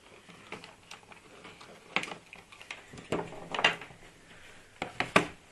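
Clicks and knocks of a multimeter and its test leads being handled and set down on a workbench: one clack about two seconds in, a cluster around three seconds, and two sharp clicks near the end.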